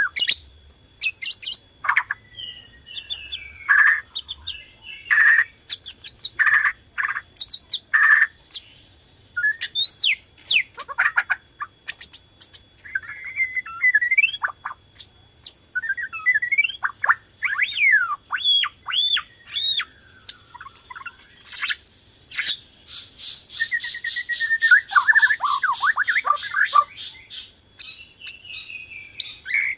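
Borneo-type white-rumped shama (murai batu) in full song: a varied run of loud whistles, sliding notes and sharp chirps, with a fast rattling trill about three-quarters of the way through.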